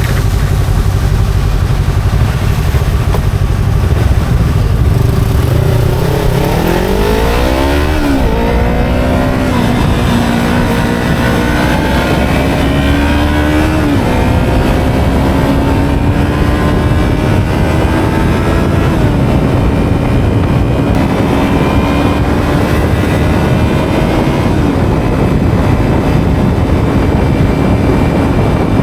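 Yamaha MT25's 249 cc parallel-twin engine accelerating while riding: the note rises sharply about six seconds in, drops at upshifts around eight and fourteen seconds, then climbs slowly with further small drops as the bike keeps gaining speed.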